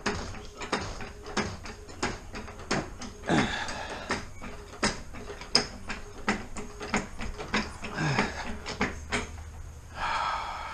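Irregular clicks, clinks and clunks of hand tools and metal parts being handled while working on a car, with a few brief falling pitched sounds about three and a half and eight seconds in.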